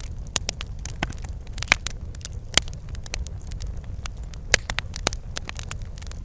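Wood fire crackling, with irregular sharp pops (the loudest about 1.7, 2.6 and 4.5 seconds in) over a steady low rumble of burning.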